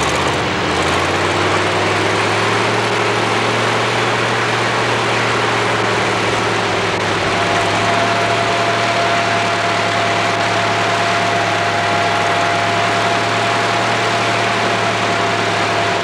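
Engine of a stripped-down car chassis running steadily with a low hum, its pitch rising slightly over the first couple of seconds; a thin steady whine joins about halfway through.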